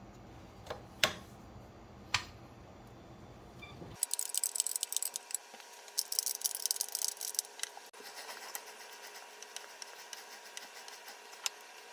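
Two sharp metallic knocks about a second apart, then rapid metallic clicking and rattling that is busiest for a few seconds and then thins out: hand tools at work on a motorcycle.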